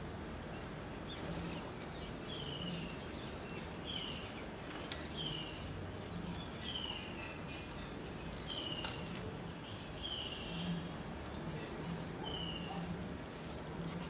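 A bird repeats a short, falling call note every second or two over a steady outdoor background hiss. Near the end a few brief, higher chirps join in.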